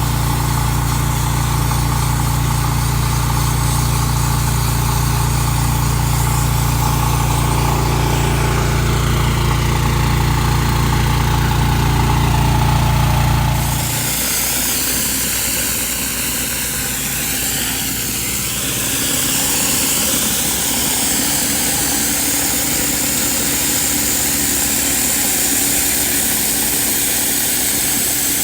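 Gas pressure washer running steadily, its engine making a low hum under the hiss of the spray. About halfway through the low engine hum drops away abruptly and a higher hiss takes over.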